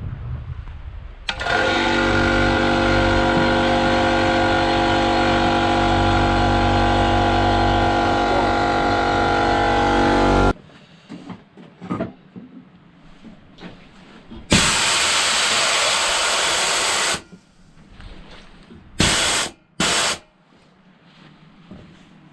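Quattro Elementi KM 24-260 2.5 hp oil-lubricated piston air compressor starting for the first time, running steadily for about nine seconds and then cutting off suddenly. A few seconds later compressed air hisses out in one long burst and then two short ones.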